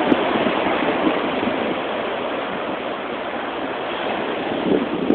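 Ocean surf washing up the beach, a steady rush that swells again near the end, with wind noise on the phone's microphone.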